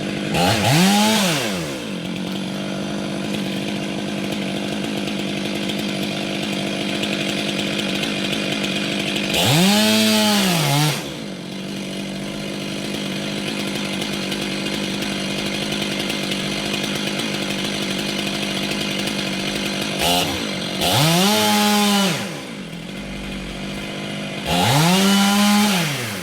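Chainsaw engine running steadily, revved up and let back down four times: near the start, about ten seconds in, about twenty-one seconds in and near the end.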